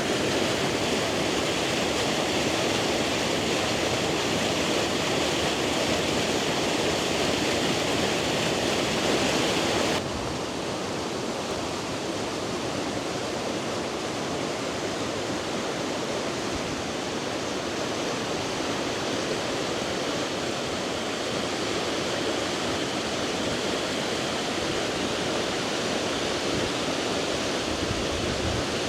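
Waterfall: a steady rush of water pouring down over rocks. About ten seconds in the rush changes abruptly, becoming a little quieter and duller, then runs on steadily.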